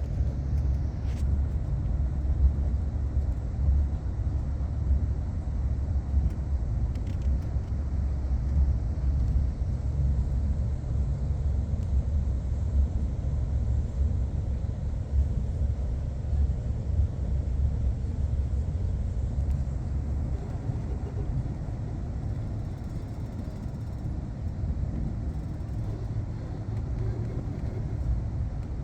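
Steady low rumble of a moving vehicle, easing off slightly after about twenty seconds.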